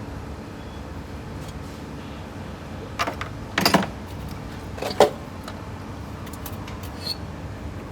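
Metal tools and engine parts clanking during an engine teardown: a knock about three seconds in, a short clattering rattle right after, and one sharp clank about five seconds in, over a steady low hum.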